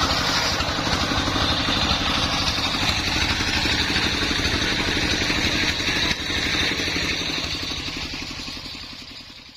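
Dongfeng 24 hp single-cylinder diesel engine running steadily, driving a homemade circular sawmill rig, with a fast even chugging; the sound fades out near the end.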